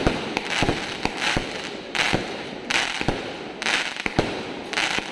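Mercun merdeka aerial fireworks going off shot after shot: a steady run of sharp bangs, roughly two a second, each followed by the short hiss of the burst overhead.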